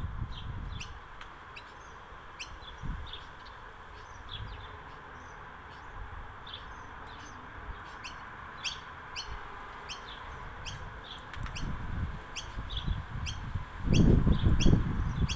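Small birds chirping repeatedly in short, high notes over a steady background hiss. A loud low rumble comes in near the end.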